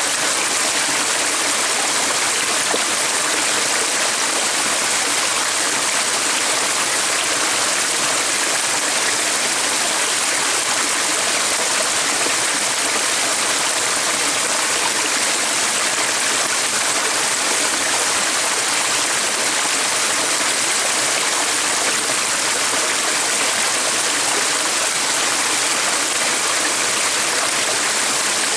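Steady rush of running water, unchanging throughout.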